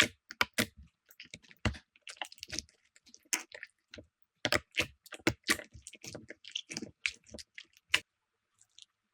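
Slime being squeezed and poked, giving irregular sharp clicks and pops as air pockets burst, stopping about eight seconds in.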